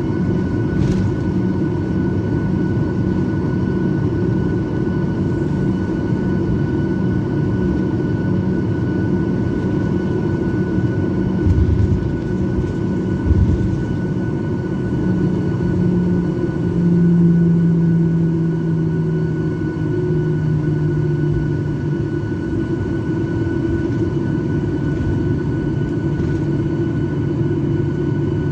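Airliner engines heard from inside the passenger cabin: a steady drone with a low hum that steps down in pitch a little past halfway. Two short low thumps come about twelve and fourteen seconds in.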